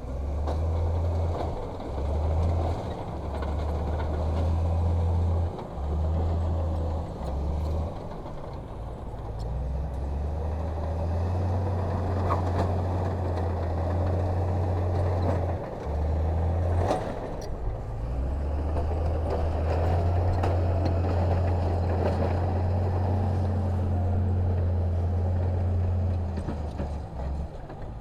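Heavy diesel earthmoving machinery running, a deep steady rumble that keeps dropping back and surging again. Two sharp knocks come partway through, one about halfway and another a few seconds later.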